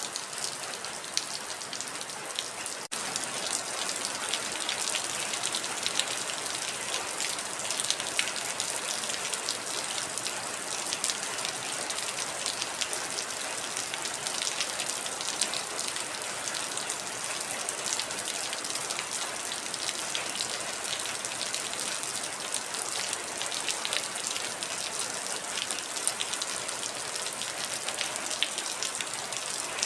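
Heavy rain falling steadily: a dense hiss with many close, distinct drop impacts. It cuts out for an instant about three seconds in, then carries on slightly louder.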